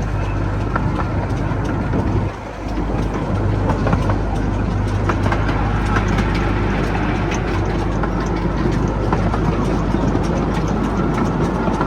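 Vehicle running steadily, heard from on board: a low engine hum under a rumble of motion noise, dipping briefly about two seconds in.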